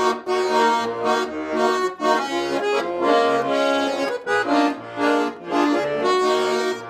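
Garmon, the Russian button accordion, playing an instrumental break with no singing: a melody over sustained chords, with short bass notes pulsing underneath.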